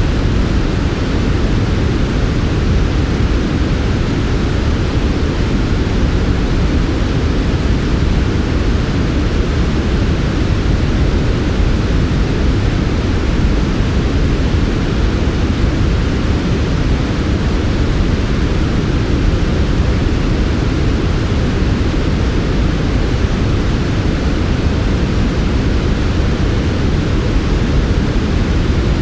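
Steady, unchanging synthetic white-noise track: an even, smooth hiss weighted toward the low end, so it sounds deep rather than bright.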